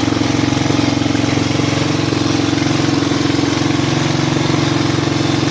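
Kawasaki KLR 650's single-cylinder four-stroke engine idling steadily through its exhaust, with an even, unchanging beat.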